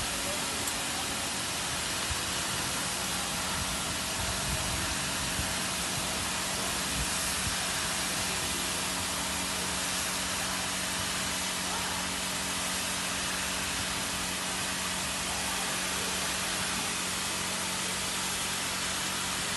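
W200D automatic car wash machine running: a steady hiss of water spray over a steady low hum from its pump and motors.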